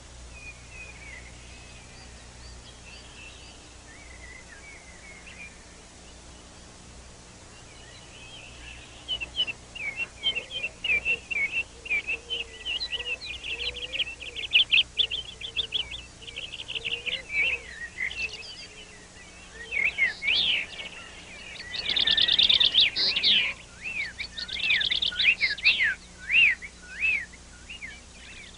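Birds chirping and singing, many short overlapping calls, sparse at first and thick from about eight seconds in, with a faint low hum beneath.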